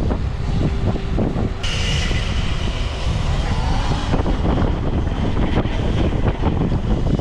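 Wind buffeting the microphone of a camera on a moving e-bike, a loud, steady rumble. A thinner, higher hiss joins it from about one and a half seconds in until about four seconds in.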